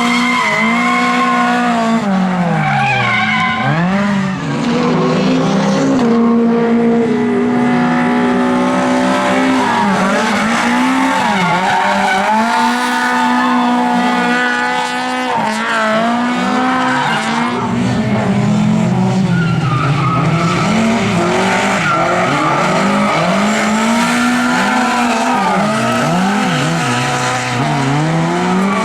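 Lada race cars running hard, engines revving up and dropping back again and again through gear changes, with more than one car heard at once at times, and tyres squealing.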